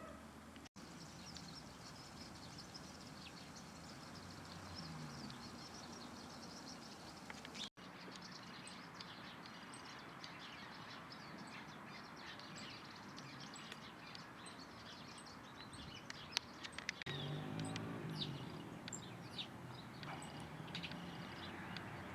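Small birds chirping: many short, high calls over a faint steady hiss. About seventeen seconds in, a brief low droning sound rises and falls under the chirps.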